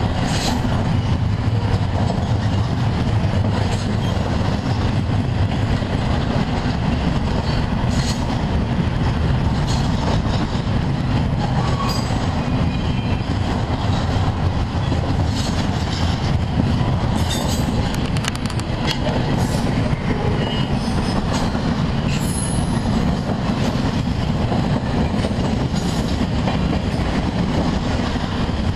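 Double-stack intermodal freight train's well cars rolling past: a steady low rumble of steel wheels on rail, with scattered clicks from the wheels over the rails and a brief high wheel squeal about 22 seconds in.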